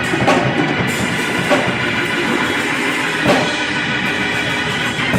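Church band playing a loud, busy groove led by drum kit, with a couple of crashes.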